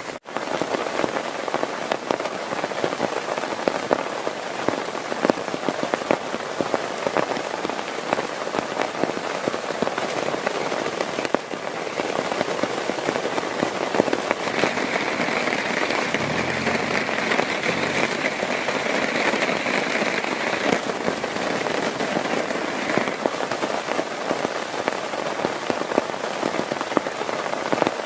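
Heavy rain falling steadily, a dense patter of drops hitting a surface. About halfway through, a higher hiss swells for several seconds and then fades.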